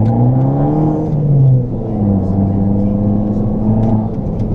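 Car engine and road rumble heard from inside the moving car. The engine's pitch rises as it accelerates, drops about a second and a half in, then holds steady as the car cruises.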